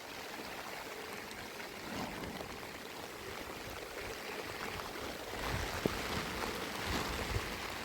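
Steady hiss of rain falling outdoors, with a low rumble of wind on the microphone joining about five seconds in.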